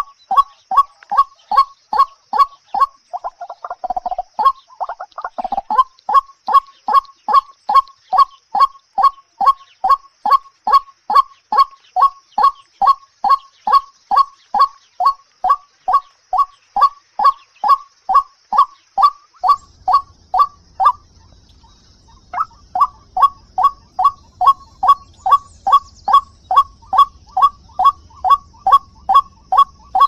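A bird calling one short note over and over at an even pace, about two notes a second, with a break of a second or two about two-thirds of the way through.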